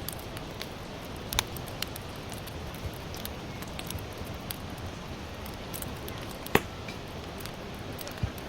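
Sawtooth oak (kunugi) firewood burning in a campfire, crackling with scattered sharp pops over a steady hiss; two louder pops come about a second and a half in and about six and a half seconds in.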